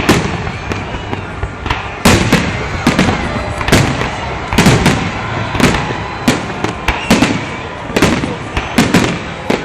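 Fireworks salute: loud shell bursts going off in quick succession, roughly one or two a second, each trailing off in an echo.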